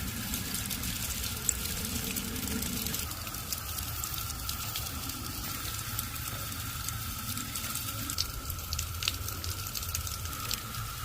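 Steady running or falling water, with scattered sharp drip-like ticks throughout and a faint steady high tone.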